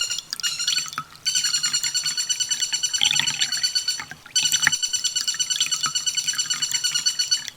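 Recorded sunbird song: a fast, even trill of high repeated notes in three phrases, broken by short pauses about a second in and about four seconds in, played as masteran for training cage birds.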